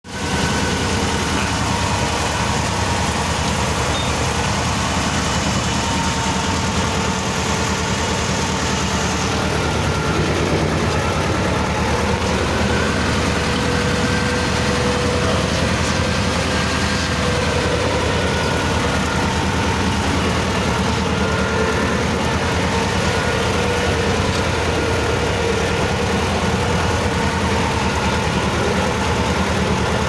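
T-16 self-propelled chassis tractor's two-cylinder air-cooled diesel engine running steadily, with a dense low pulsing throb.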